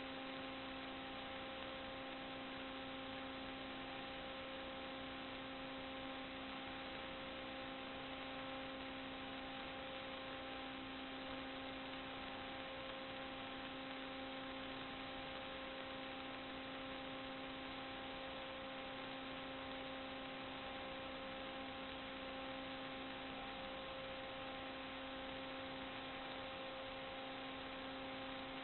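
Steady electrical hum with hiss, a few even tones held without change and nothing else, as from a sewer inspection camera's recording system.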